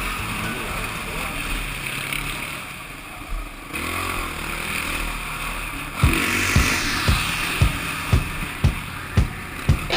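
Vehicle engine noise, then about six seconds in a song kicks in with a steady drum beat, about two beats a second.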